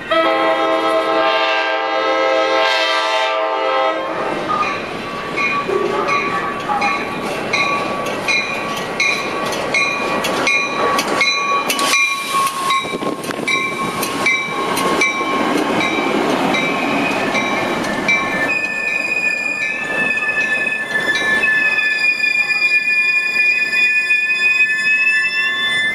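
Metra commuter train sounding a multi-note horn for about four seconds. It then rolls into the station, its wheels clicking over rail joints, with high-pitched wheel and brake squeal that becomes a steady, sustained squeal in the last several seconds as it slows to a stop.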